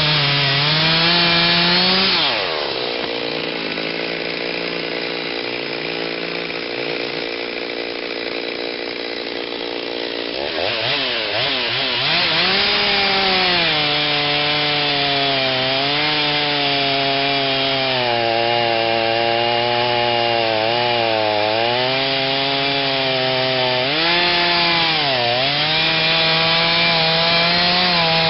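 Stihl 039 two-stroke chainsaw with a modified, opened-up muffler running hard. About two seconds in its pitch drops and it runs lower and quieter. About ten seconds in it revs back up, then keeps sagging and recovering in pitch as the chain is loaded in the cut through the oak.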